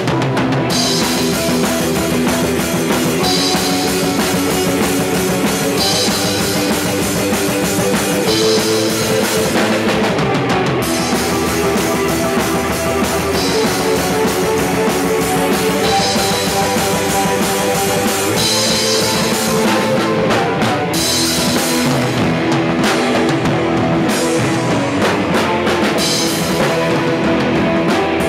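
Rock band playing a song, with drum kit and guitars, loud and steady throughout.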